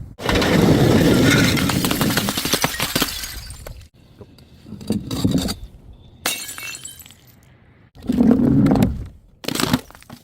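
Glass bottles smashing, with a dense clatter of shards lasting about three seconds, then several shorter crashes; each is cut off abruptly.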